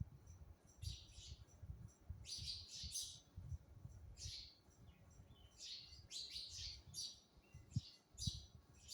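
Sparrows chirping in short, rapid, high-pitched clusters, typical of a sparrow feeding her chick. A faint, irregular low rumble runs underneath.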